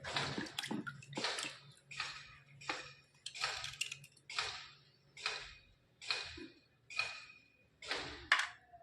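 Repeated scraping strokes, about one and a half a second, each a short rasp.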